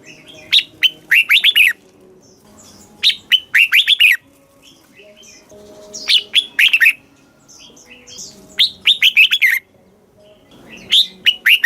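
Red-whiskered bulbul singing: short, rapid phrases of bright whistled notes, repeated about every three seconds.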